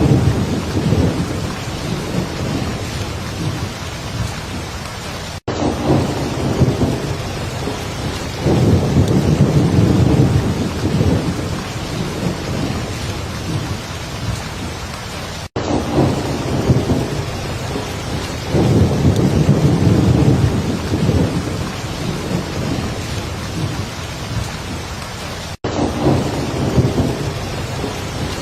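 Heavy rain falling steadily with low rolling rumbles of thunder that swell and fade. The sound cuts out for an instant about every ten seconds.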